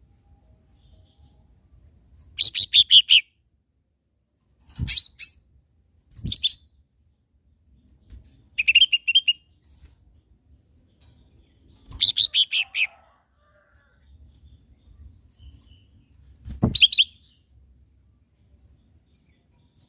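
Lesser green leafbird (cucak ijo mini) singing in short bursts of quick, high chirped notes, about six phrases with pauses of a couple of seconds between them, a few of them with a low knock underneath.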